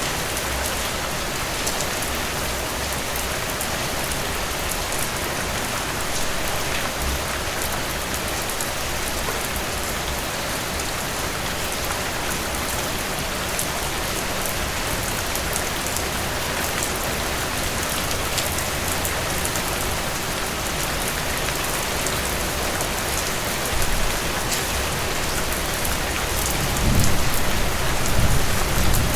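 Heavy rain pouring steadily, with many individual drops ticking on a hard surface. A low rumble swells in near the end.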